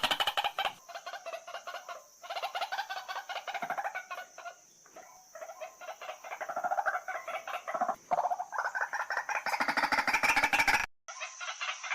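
White-breasted waterhen calling: long runs of rapid, repeated croaking notes. The recording cuts out abruptly near the end, then the calling resumes.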